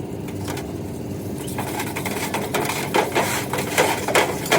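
A steady low mechanical drone, with a run of sharp clicks and knocks starting about a second and a half in and getting louder toward the end.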